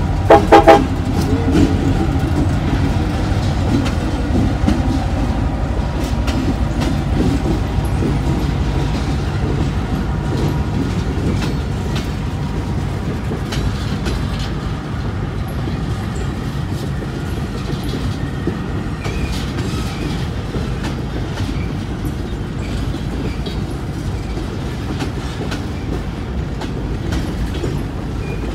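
Diesel freight locomotive gives a brief, loud horn blast about half a second in. The engine and the string of freight cars then rumble steadily past with scattered wheel clicks, slowly fading as the train moves off.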